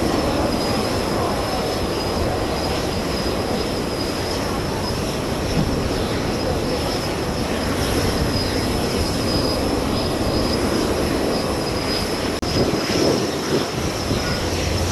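Airbus A320 jet engines running, a steady high whine over a loud rushing noise, with strong wind buffeting the microphone. The sound drops out for an instant about twelve seconds in.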